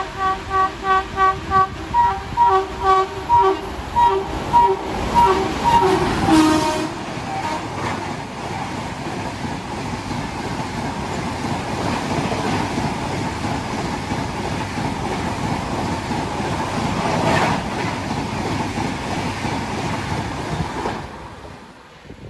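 WAP-7 electric locomotive's multi-tone horn sounded in rapid short toots, about two to three a second, as an express approaches at about 130 km/h. The pitch drops as it passes about six seconds in. Then comes the steady rush and clatter of coaches going by at speed, which fades near the end.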